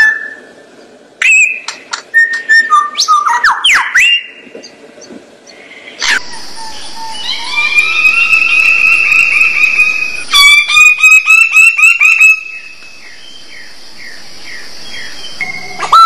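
Bird calls: a quick, varied run of whistles, sharp clicks and squeaky pitch glides. From about six seconds in come longer whistled notes over a steady hiss, broken by a rapid run of clicks.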